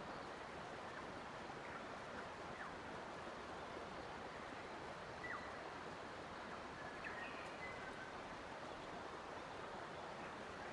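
Faint, steady rush of flowing water, with a few short, high bird chirps about halfway through and a couple more shortly after.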